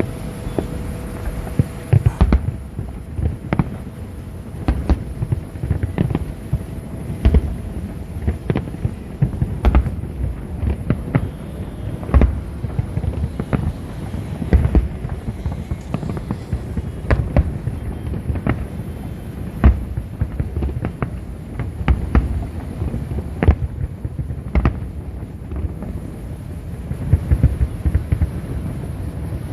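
Fireworks bursting in quick, irregular succession: many sharp bangs over a continuous low rumble.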